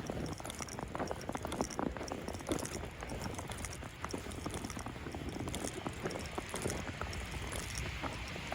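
Footsteps crunching through fresh snow at a walking pace, over a steady hiss of wind and falling snow.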